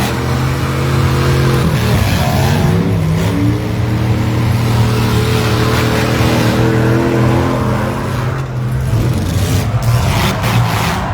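Demolition derby vans, SUVs and mini trucks running and revving their engines, several engines at once with pitch rising and falling.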